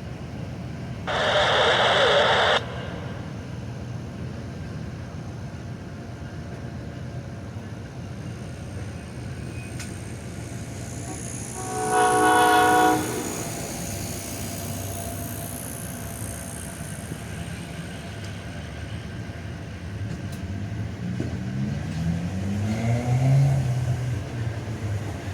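Amtrak Silver Meteor passenger train at a station in heavy rain, with the rain's hiss underneath throughout. About a second in comes a loud noisy blast lasting about a second and a half. About halfway through the multi-tone train horn sounds once for about a second. Near the end a rising whine builds as the train works.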